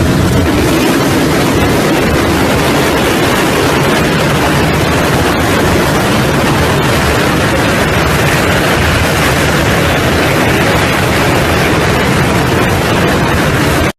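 Motocross motorcycle engines running hard, a loud, steady, dense wash of engine noise.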